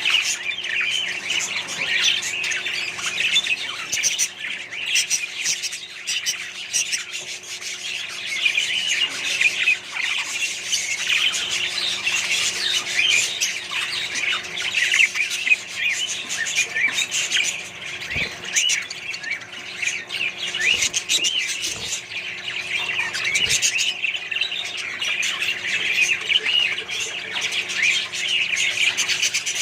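A colony of budgerigars and other cage birds chattering, chirping and squawking all at once in a continuous dense chorus, over a faint steady hum.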